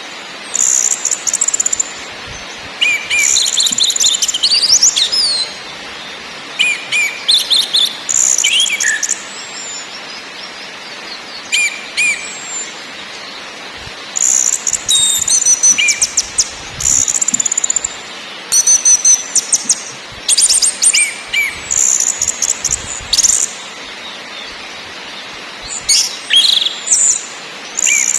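Orange-headed thrush (anis merah) calling in bursts every few seconds: fast rattling note trains mixed with short high whistles that slide in pitch. The gaps between bursts carry a steady hiss.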